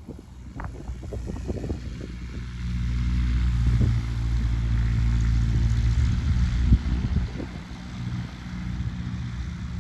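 Light propeller aircraft's piston engine running with a steady low drone, growing louder over the first few seconds and easing off a little near the end. A few short buffets of wind on the microphone come near the start.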